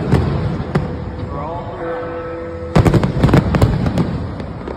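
New Year fireworks bursting overhead: a couple of sharp bangs near the start, then a rapid volley of bangs about three seconds in, over the noise of a crowd.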